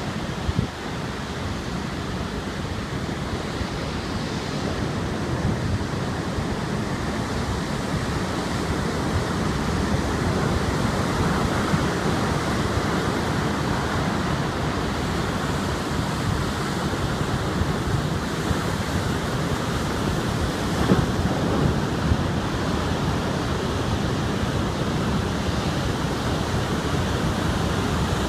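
Heavy storm surf from an approaching typhoon breaking on a beach, with strong wind buffeting the microphone: a steady, dense rushing noise. A short knock about half a second in.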